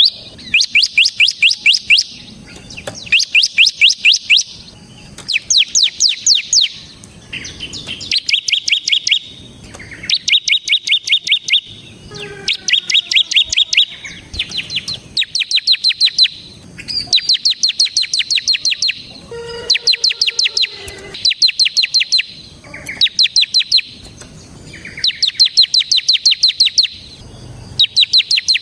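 Bar-winged prinia (ciblek) singing vigorously in its rapid rattling 'ngebren' style: loud bursts of a second or two of fast, evenly repeated high notes, one after another every couple of seconds.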